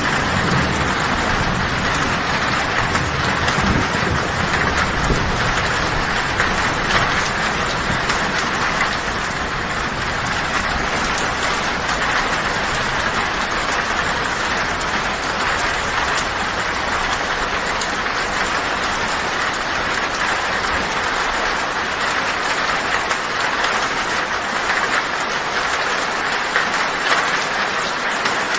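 Heavy rain falling steadily on a tin roof, a dense, even patter. A low thunder rumble sits under it for the first several seconds and dies away.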